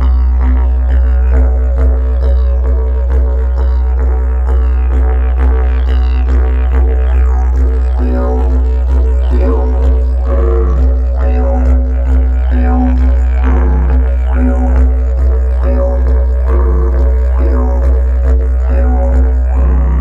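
Yucca-wood didgeridoo tuned to a low B played solo, a deep steady drone with shifting overtones and a rhythmic pulse, filling the room.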